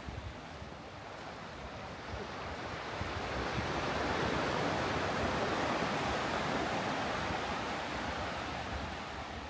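Sea surf: a wave breaking and washing up the beach, swelling about three seconds in and easing off near the end, with wind rumbling on the microphone underneath.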